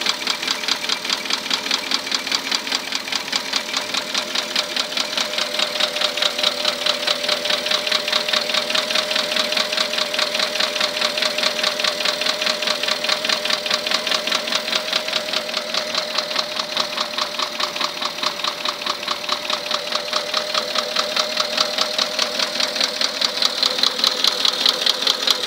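Porsche Cayenne 4.8 V8 engine idling with a steady, rapid rhythmic knock. The knock comes from a scored fifth cylinder wall and a damaged piston (piston slap), located at cylinders five and six.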